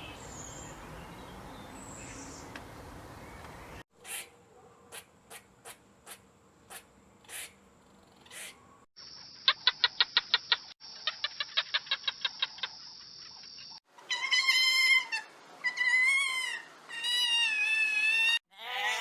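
A run of short animal clips. A faint hiss gives way to scattered short chirps, then a fast even trill of clicks, and then, after about 14 seconds, several high, wavering calls.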